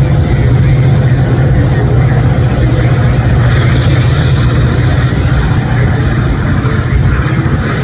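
Diesel train passing at close range: a steady low engine drone over continuous rolling wheel-and-rail noise.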